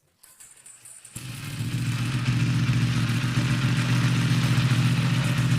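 Yamaha R1M's crossplane inline-four starting from cold through a full-titanium MT Race exhaust: it catches about a second in, swells over a second and settles into a steady idle.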